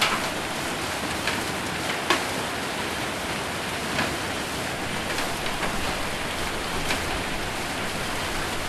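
Rain and hail falling on a metal roof: a steady, dense hiss of rain with scattered sharp hits every second or so.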